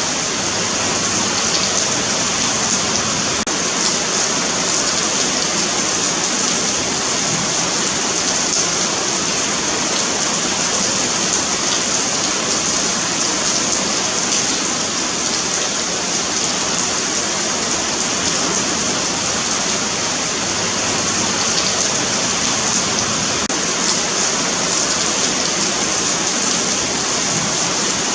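Steady rain falling on a paved sidewalk, an even hiss of drops striking the concrete.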